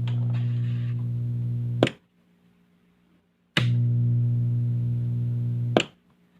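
Loudspeaker giving out a steady low electrical hum with a buzz of overtones, the humming fault being fixed. It cuts off with a click about two seconds in, comes back on with a pop about a second and a half later, and cuts off with a click again near the end.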